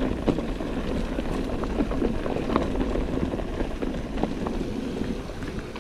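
Rock Machine Blizzard mountain bike being ridden down a dirt trail: a steady rush of tyres and wind with frequent small knocks and rattles from the bike over bumps, easing off near the end.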